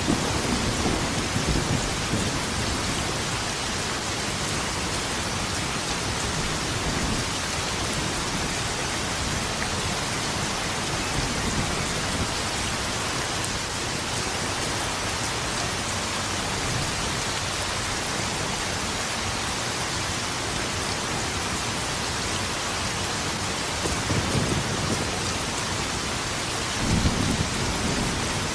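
Steady heavy rain falling, with low rolls of thunder rumbling in the first couple of seconds and twice more near the end.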